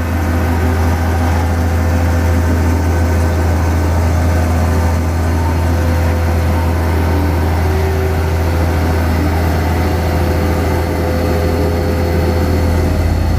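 Vibratory road roller running with its drum vibration switched on: a loud, steady, deep hum from the engine and the vibrating drum.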